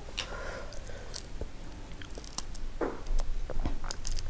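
Crab shell being cracked and pried apart by hand: scattered short clicks and crunches, with one louder crack about three seconds in.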